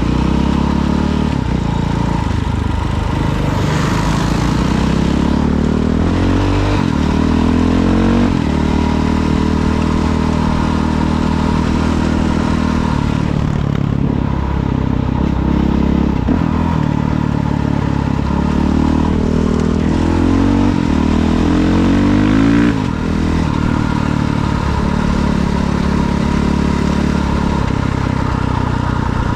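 Dirt bike engine running under load, its pitch climbing again and again as it accelerates and then falling back. There is a sudden drop in pitch and level about 23 seconds in.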